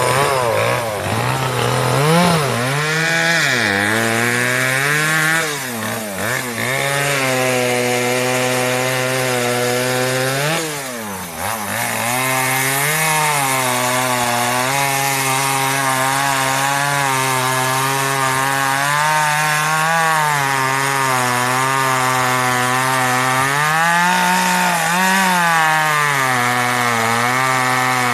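Two-stroke chainsaw running at high revs. Its pitch dips and recovers several times as it takes load in the cut, then holds fairly steady with small wavers.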